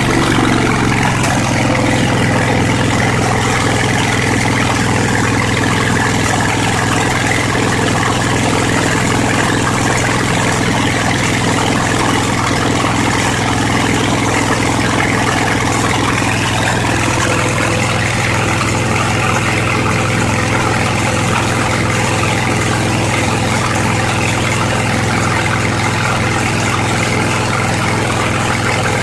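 Briggs & Stratton 22 HP Intek V-twin engine running steadily with no exhaust gaskets fitted, its speed dropping and settling in the first second.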